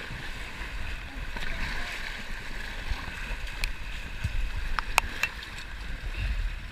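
Whitewater rapids rushing around a kayak, with low wind buffeting on the action-camera microphone. A few sharp clicks or knocks come in the middle, closely spaced.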